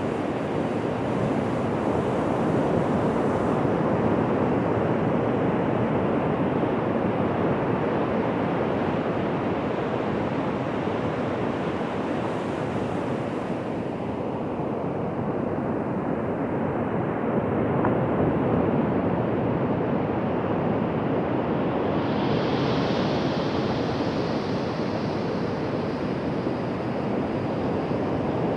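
Ocean surf breaking and washing on a beach, a steady rushing that swells and eases slowly, with some wind on the microphone.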